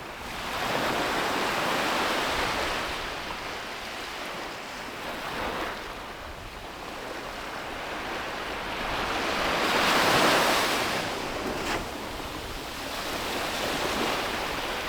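Sea waves breaking and washing up a beach, the surf rising and falling in surges, with the loudest wash about ten seconds in.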